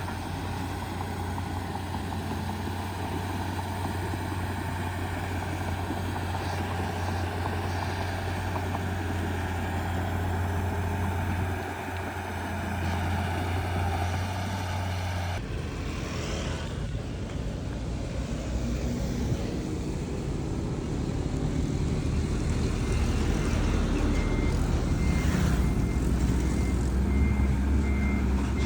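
Heavy diesel earth-moving machinery (dump trucks and a crawler bulldozer) running steadily; the engine sound changes abruptly partway through. Near the end a vehicle's reversing alarm beeps in an even, repeating rhythm.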